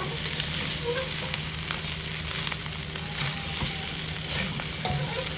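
Squid fried rice sizzling in a hot pan while it is stir-fried, with irregular clicks and scrapes of the utensil against the pan over the steady sizzle.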